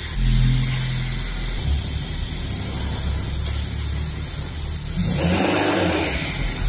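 Car engine running just after being started: a steady low hum, with a louder swell about five seconds in.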